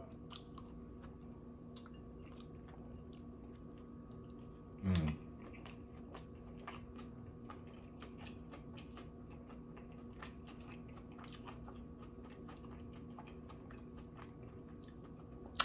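Close-miked chewing of a mouthful of sushi roll with a crunchy crumb topping: soft, moist clicks and small crackles, with a short hummed "mm" about five seconds in.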